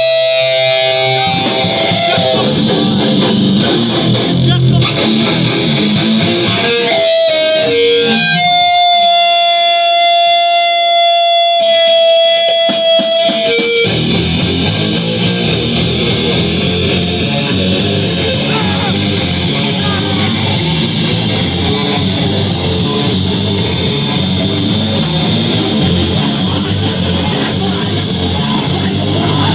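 Live rock band playing loud. An electric guitar plays alone with long held notes for about the first half, then the full band with drums comes in about fourteen seconds in.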